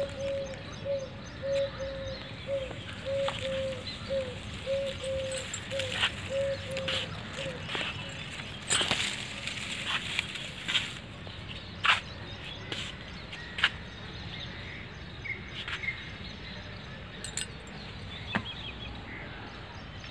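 A bird calling one short, low note over and over, about twice a second, stopping about eight seconds in, with scattered sharp clicks and knocks and a few faint higher chirps.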